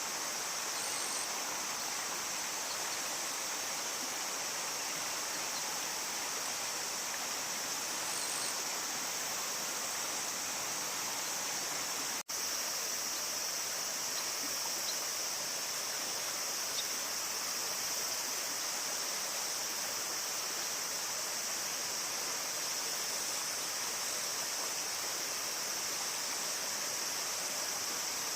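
Steady rush of river water with a constant high-pitched insect chorus over it. The sound cuts out for an instant about twelve seconds in.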